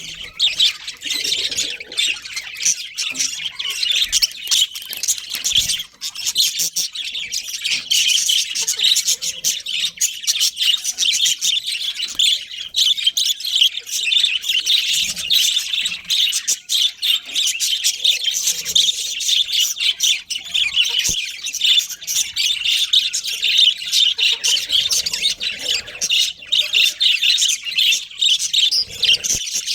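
A colony of budgerigars chattering nonstop, many birds calling over one another in a dense stream of short chirps.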